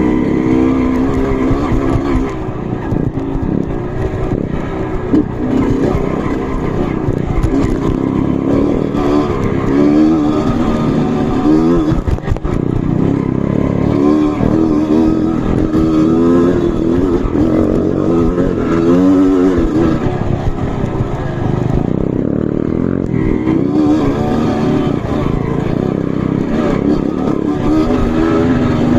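Trail motorcycle engine running and revving on and off, its pitch rising and falling constantly as the throttle works.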